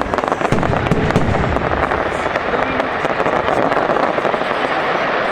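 Fireworks display: a rapid barrage of bangs and crackling reports in the first couple of seconds, then a dense, continuous crackle and rumble.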